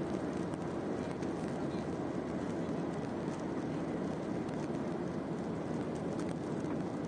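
Steady cabin noise inside a Boeing 737-800 in flight: the even rush of air and engine hum, unchanging in level.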